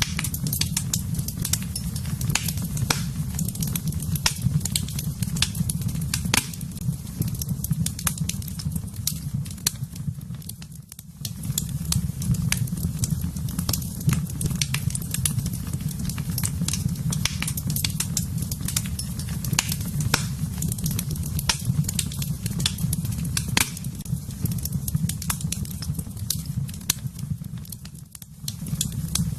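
Wood fire burning in a fireplace: many sharp crackles and pops over a steady low rumble of the flames, which briefly drops away twice.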